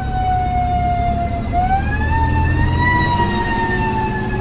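Fire engine siren with a slow gliding pitch: it winds down, rises again about a second and a half in, and then slowly falls. The truck's diesel engine drones low underneath.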